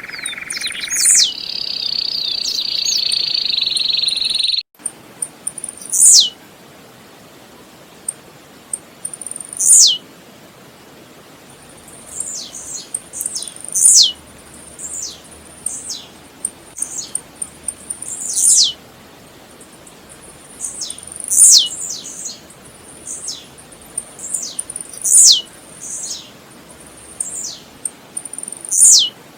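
Blue-black grassquit (tiziu) singing: short, sharp notes that sweep quickly down in pitch, repeated every three to four seconds with softer notes between. A loud steady hiss fills the first four and a half seconds and cuts off suddenly.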